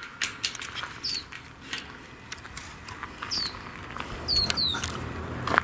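A bird calling with short, high chirps that fall in pitch, four in all, the last two close together. Faint clicks of footsteps run underneath.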